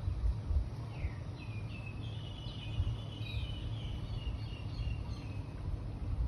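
A songbird singing a rapid, twittering run of high notes that starts about a second in and stops about five seconds in, over a steady low rumble.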